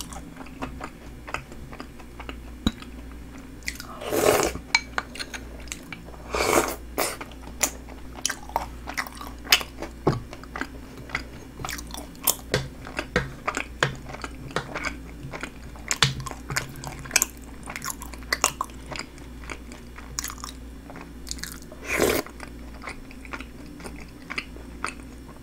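Close-up chewing and crunching of crisp snack pieces in a milky shaved-ice dessert, with many small sharp clicks and crunches. Three longer, louder noises come about four, six and a half and twenty-two seconds in.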